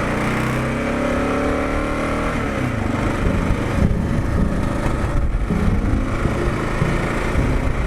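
Kawasaki KLR650's single-cylinder engine pulling under acceleration, its pitch rising for about two seconds, then dropping suddenly and running on at a steadier, lower speed.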